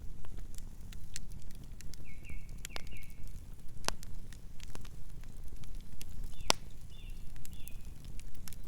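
Campfire crackling and popping over a low rumble of burning, with one sharp pop louder than the rest past the middle. Two brief runs of high chirps come in, about two seconds in and again near seven seconds.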